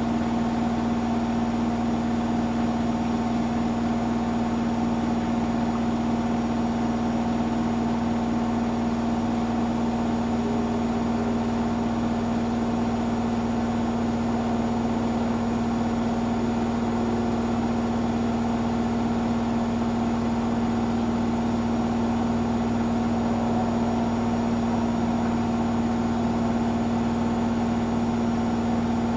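Hotpoint washing machine running steadily through its cycle, a constant motor hum with a strong even tone that holds unchanged throughout.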